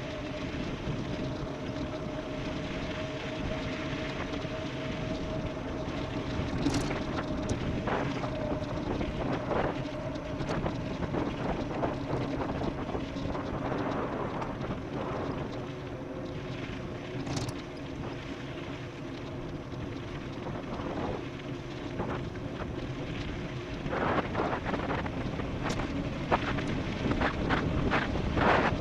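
Wind rushing over the microphone on a fast e-bike descent, under a steady low hum from the rolling bike. Scattered knocks and rattles from the bike over rough ground, thicker near the end.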